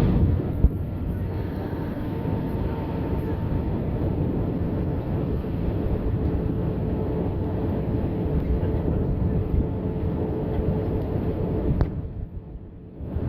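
Airbus A320 in flight, heard from the cabin: the steady noise of the engines and the rushing air, with a steady mid-pitched hum over it. The noise dips briefly about a second before the end.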